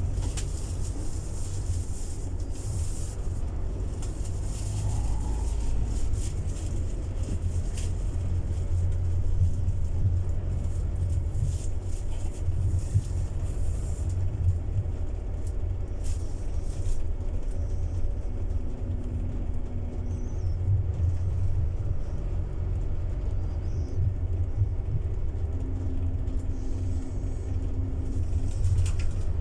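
Scania city bus in motion: a steady low engine and road rumble, with scattered light rattles in the first half.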